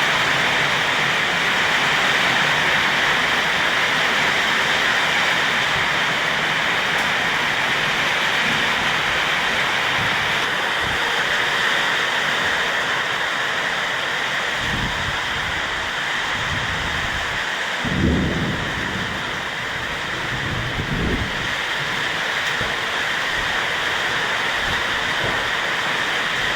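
Heavy rain pouring down in a steady, dense hiss. A few short low rumbles come through in the second half, the loudest about 18 seconds in.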